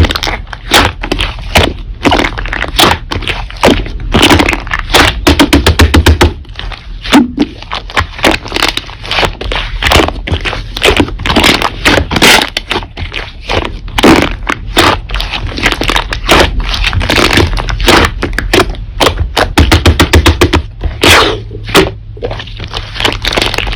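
Slime being squeezed, pressed and poked by hand, giving a dense, irregular run of crackling clicks and pops.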